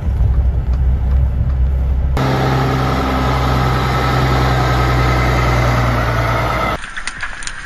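Heavy engine running steadily, cut abruptly about two seconds in to a different steady machine hum, then near the end to quieter clicking and clattering.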